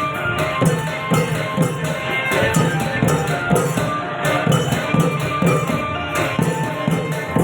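Thai klong yao long-drum ensemble playing a steady rhythm of drum strokes, with jingling small cymbals and held melodic tones above.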